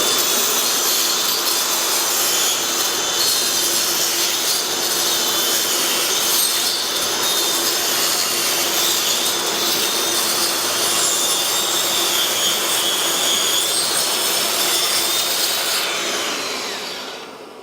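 Angle grinder cutting into the brick and stone of a wall, running steadily under load with a constant whine. About a second before the end it is switched off and spins down.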